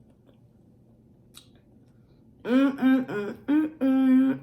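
A woman's voice humming a run of five short notes, the last one held, after a couple of seconds of quiet room tone with one faint click.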